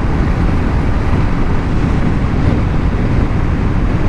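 Steady rush of wind on the microphone with road noise while a BMW G 310 GS motorcycle is ridden at highway speed, its engine mostly buried under the wind.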